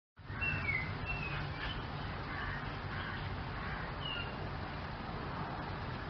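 Birds chirping outdoors: a few short chirps, some sliding down in pitch, in the first second and once more about four seconds in, over steady low rumbling background noise.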